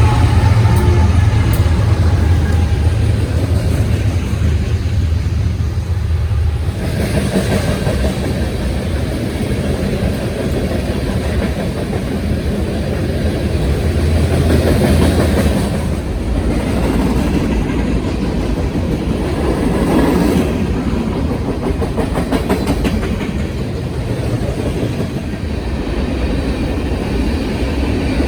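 A train passing close by: a heavy low engine rumble for the first seven seconds or so, then the steady rolling rumble and clatter of wheels on rail.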